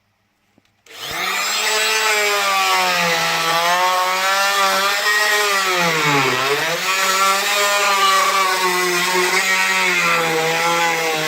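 Oscillating multi-tool with a bimetal blade starting about a second in and running steadily as it cuts through nails, its pitch dipping briefly a little past the middle as the blade is loaded.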